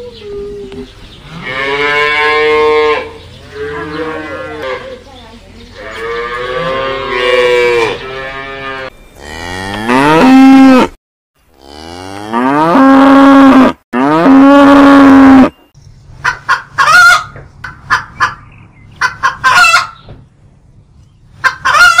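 Cows mooing: about six long, drawn-out moos, one after another. In the last quarter, hens clucking in quick short calls.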